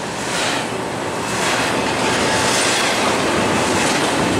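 A BNSF double-stack container train's well cars passing close by at speed: a steady rumble and rattle of wheels on rail, getting a little louder about a second in.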